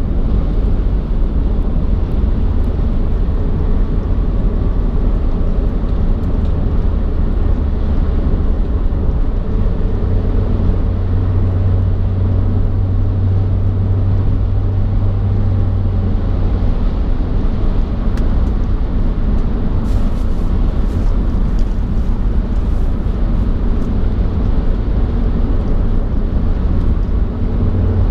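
Moving road vehicle's steady low rumble of engine and road noise, with a low hum that swells for several seconds in the middle.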